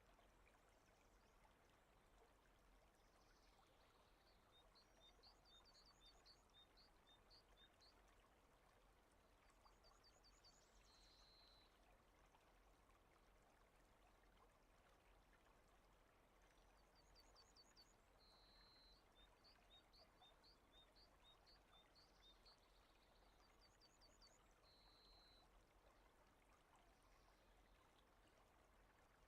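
Very faint nature ambience: a steady hiss of rain, with a bird singing short phrases of quick high chirps several times.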